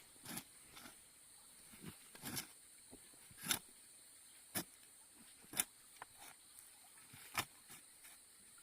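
A series of sharp knocks at irregular intervals, roughly one a second, over a faint steady high-pitched hiss or buzz.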